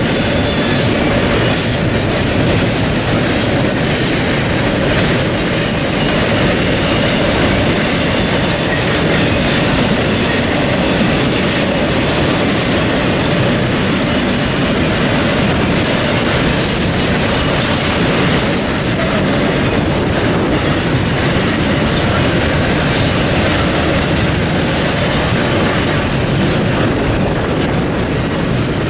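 BNSF freight train's cars rolling past on the rails, a loud, steady rumble and rattle of wheels on track.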